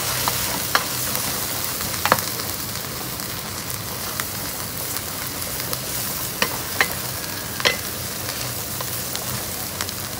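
Stingray and water spinach sizzling as they fry in a pan, a steady hiss, with a few sharp clicks of a cooking utensil against the pan as the fish is turned.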